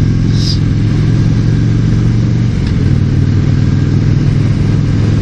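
Harley-Davidson cruiser motorcycle running steadily at riding speed, with a short dip in the engine note about halfway in before it steadies again. It runs on its stock exhaust, which the rider calls weak-sounding.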